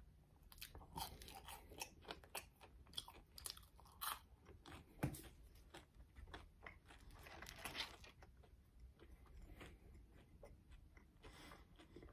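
Close-up chewing of French fries: quiet, irregular crunches and wet mouth clicks.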